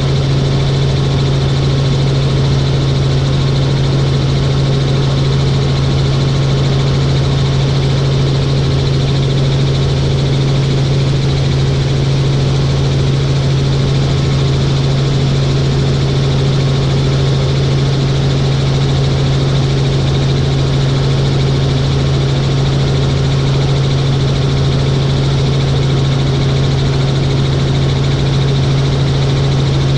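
Helicopter in flight: a steady engine and rotor drone with a strong low hum that holds the same pitch and level throughout.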